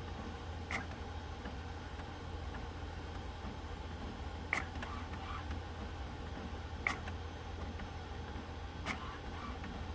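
HP OfficeJet Pro 8710 inkjet printer mechanism clicking during its alignment cycle: four sharp, irregularly spaced clicks over a steady low hum.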